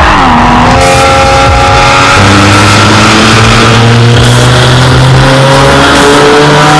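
Porsche 981 Cayman flat-six engine through an aftermarket Mach5 exhaust, accelerating hard. The revs drop at a gear change right at the start, then the pitch climbs steadily, with another step in pitch near the end.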